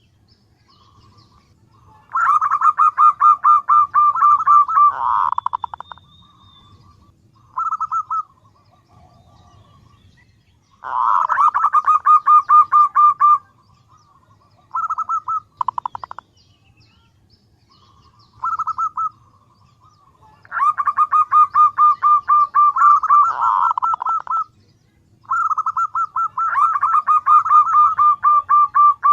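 Female zebra dove (perkutut) calling: repeated runs of rapid staccato cooing notes. Some runs last about three seconds, with shorter bursts between them and brief pauses. This is the hen's call to a male, used as a lure call.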